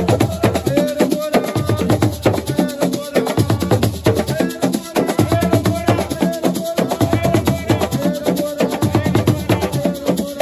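Senegalese assiko music played live: a fast, steady rhythm of drums and rattling shakers, with a wavering melodic line running over the beat.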